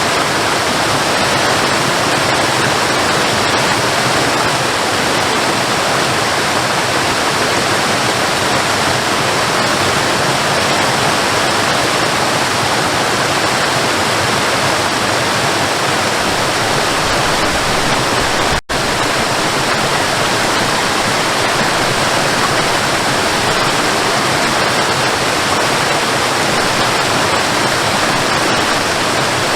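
Waterfall, a steady loud rush of falling water, with a momentary break in the sound about two-thirds of the way through.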